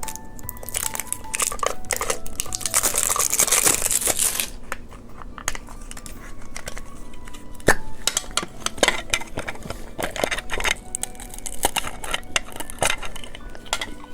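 Crinkly plastic candy packaging being crumpled and torn open, loudest about one to four seconds in, then scattered clicks and taps as the plastic is handled.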